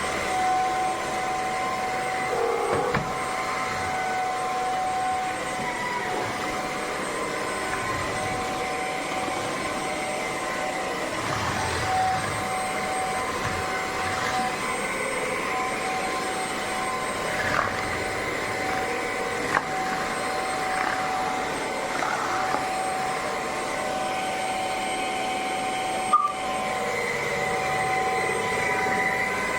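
Bissell CrossWave OmniForce cordless wet-dry vacuum running steadily, its motor giving a constant whine over a rushing of air, with a few sharp clicks or knocks now and then.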